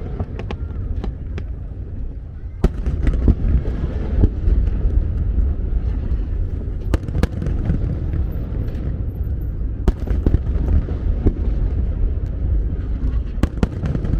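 Aerial fireworks bursting: a continuous deep rumble of overlapping booms, broken by sharp cracks every second or two.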